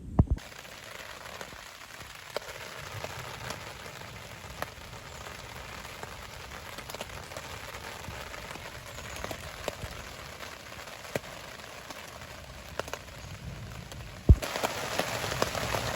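Steady rain falling, with scattered single drops ticking close by; it gets suddenly louder near the end.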